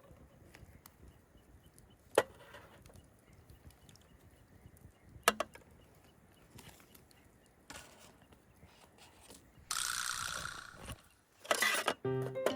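Wood fire crackling: a few sharp pops over a faint hiss, then a louder rush of hissing noise near the end.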